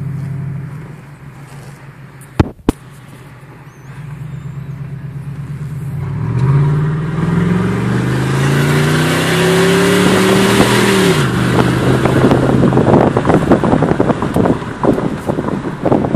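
2003 Ford F-150's 5.4-litre V8, run with no muffler and the exhaust dumped behind the cab, heard from inside the cab at wide-open throttle. After two sharp clicks, the exhaust note climbs steadily in pitch for about five seconds, drops suddenly at a gear change, then pulls on loud.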